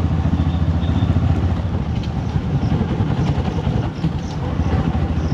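Motorcycle engine running steadily under way, with wind and road noise, easing off slightly for a moment about four seconds in.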